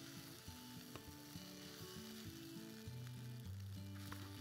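Rice sizzling in oil in a stainless steel pan while being stirred with a spatula, with a couple of light clicks. Soft background music of held low notes plays underneath.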